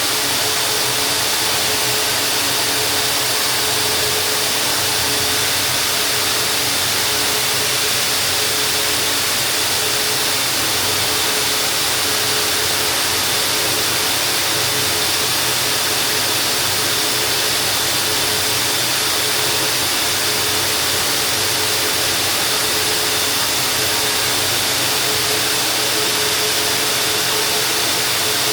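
High-powered duct-cleaning vacuum running steadily: an even, loud hiss with a steady hum, as it pulls dust and debris out of an air duct while the rotating duct brush works inside.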